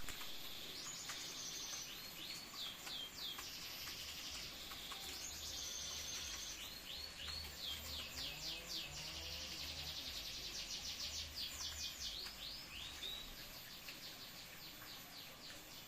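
Male canary singing its courtship song: high, rapid trills and repeated falling whistled sweeps, with a long fast rattling trill in the middle, fading near the end.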